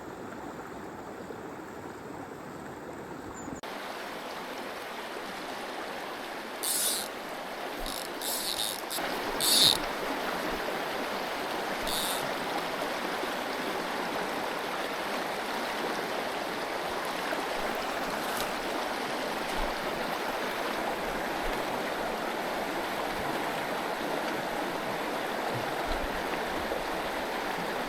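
Mountain stream water running steadily over rocks, fuller from about four seconds in, with a few brief sharp splashes or rustles between about seven and twelve seconds in.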